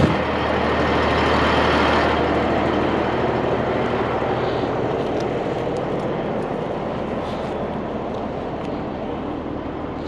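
Cabover Peterbilt 362 semi truck's diesel engine running, a steady rumble that eases off slightly after about two seconds.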